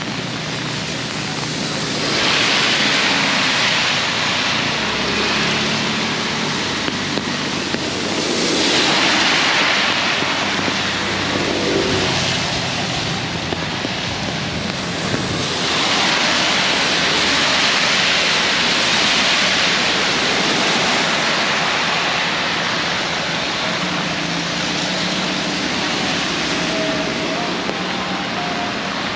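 Very heavy rain pouring down with a steady hiss, swelling louder three times, with a faint low hum of traffic underneath.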